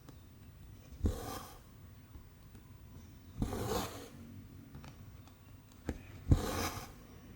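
Needle stitching cotton thread through 14-count cross-stitch canvas. Each stitch is a sharp tick followed by a short rasp as the thread is drawn through the fabric, three times about two and a half seconds apart.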